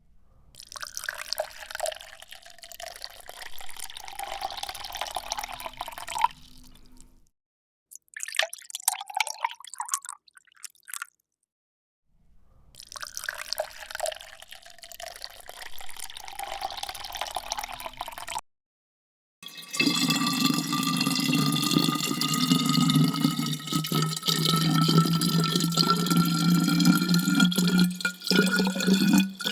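Water being poured, in several separate takes with short silent gaps between them. In the last, longer take a steady stream fills a vessel, its pitch rising as it fills.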